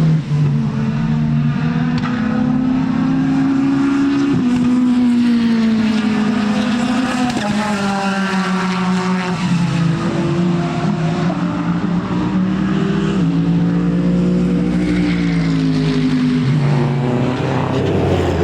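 Racing car engine running hard on track, its note shifting in pitch in steps several times as it changes gear.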